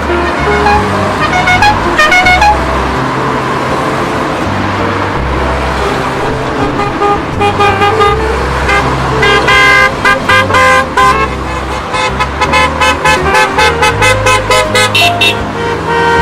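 Cars running, with a growing string of short car-horn toots that come several a second in the second half.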